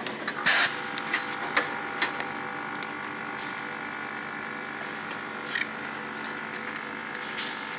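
Tuna filling machine running: a steady mechanical drone with several steady tones, scattered clicks and knocks, and a short hiss near the end.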